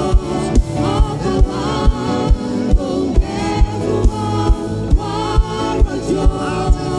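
A gospel worship choir singing with a band, over a steady beat of about two low thumps a second.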